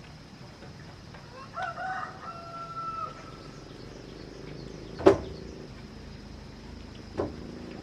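A rooster crows once, a held call lasting about a second and a half. Two sharp knocks follow, the first and loudest about five seconds in, the second about two seconds later.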